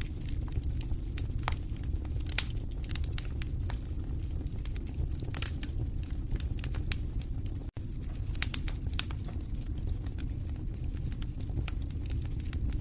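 Wood fire burning in a fireplace: irregular sharp crackles and pops over a steady low rush of flame, with one louder pop a couple of seconds in and a split-second dropout about two-thirds through.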